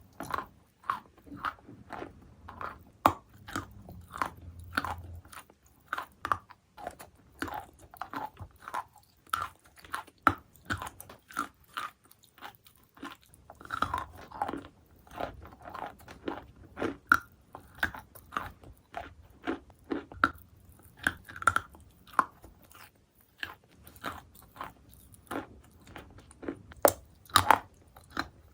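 Lerkin chalk being bitten and chewed, a steady run of sharp, crisp crunches, one or two a second.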